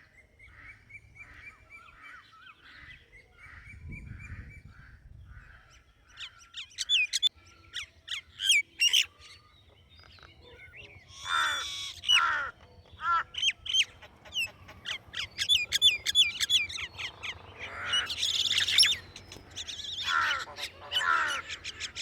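Several birds calling. First comes a quick series of short repeated notes. From about six seconds in there are many sharp chirps and a few louder, harsher calls.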